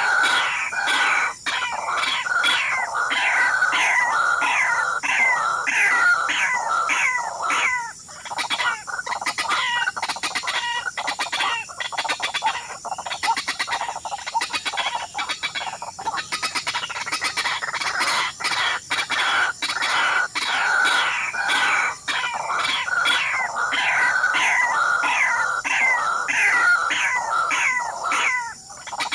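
Fowl clucking and cackling in a continuous, rapid run of short calls, about three a second, thinning briefly a third and half of the way through, over a steady faint high-pitched tone.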